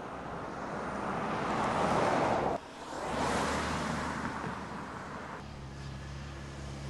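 Cars passing on a road: a swelling rush of tyre and engine noise that cuts off suddenly about two and a half seconds in, a second pass right after, then a steady low engine hum from about five and a half seconds.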